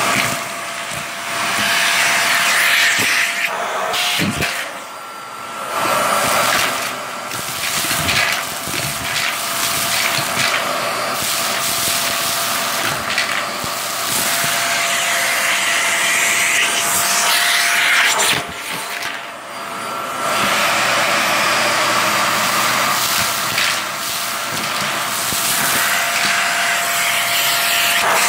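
Vacuum cleaner running on shag carpet, sucking up test debris: a steady motor whine over a rushing hiss, with the sound dipping briefly a few times.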